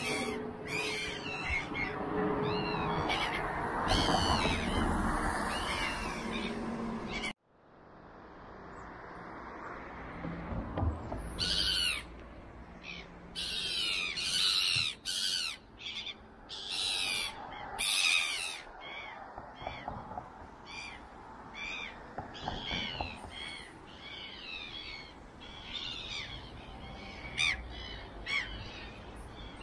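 Birds calling and chirping, many short, arched, repeated notes with a few louder, harsher calls. The sound drops out abruptly about seven seconds in and fades back in.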